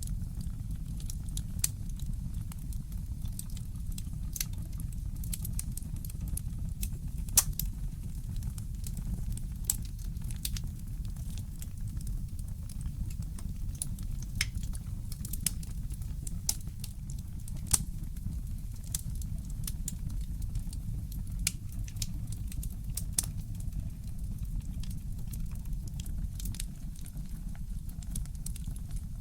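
Wood fire crackling in a fireplace: irregular sharp pops and snaps, the loudest about 7 and 18 seconds in, over a steady low rumble.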